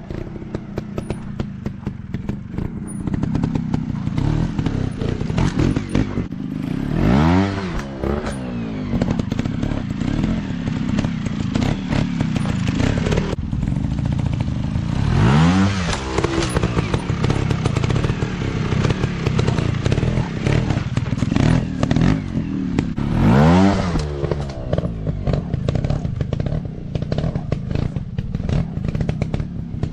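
Dirt bike engines running continuously on a motocross practice track. One engine revs up and back down three times, about eight seconds apart, over a steady rattle and crackle of engine noise.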